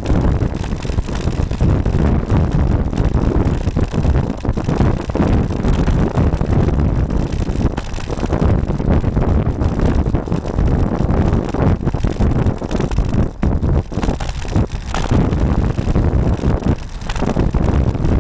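Wind buffeting the microphone of a bike-mounted camera while riding: a loud, uneven rumble that keeps surging and dipping.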